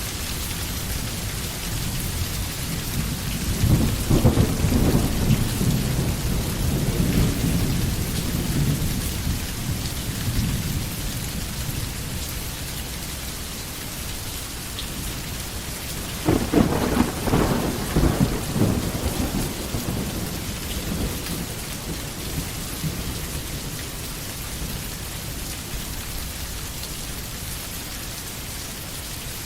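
Steady rain falling, with two rolls of thunder: a long rumble starting about four seconds in and fading over several seconds, and a shorter, crackling one about sixteen seconds in.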